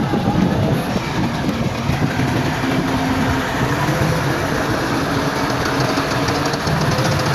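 Heavy diesel earthmoving machinery running steadily, with a deep engine hum and a faint light ticking that comes in about halfway through.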